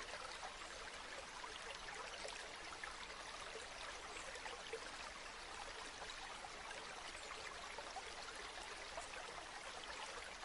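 Flowing river water, a steady faint babbling rush.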